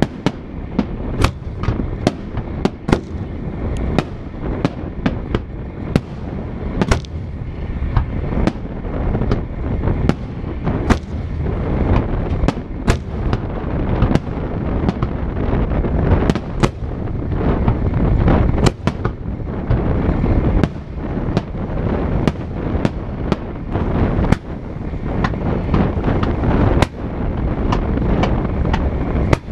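Fireworks display going off: a dense, fast run of sharp bangs, several a second, over a continuous low rumble.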